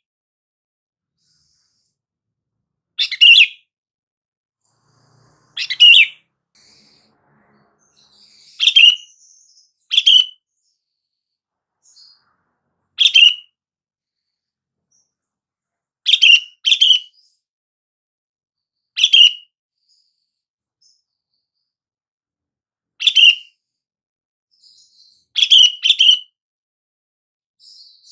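Sooty-headed bulbul (kutilang) giving short, sharp chirping calls, one every two to three seconds, twice in quick pairs.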